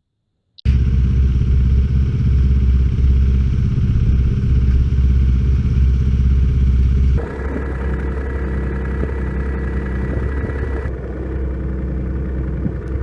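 Snowmobile engine running loudly at steady speed, starting abruptly about half a second in, with a change in its sound about seven seconds in.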